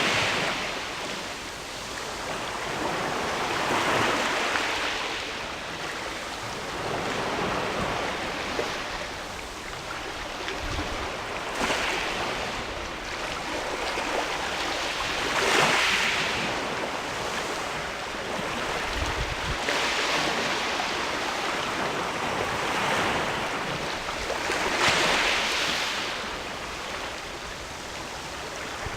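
Sea waves washing against the rocks of a rocky shore, swelling and falling every few seconds.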